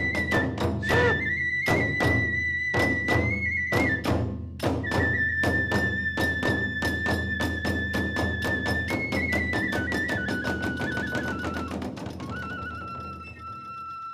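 Kagura hayashi ensemble: a bamboo flute plays long high notes that step down in pitch over fast, steady drum beats and clashing hand cymbals. The beats thin out near the end while the flute holds on.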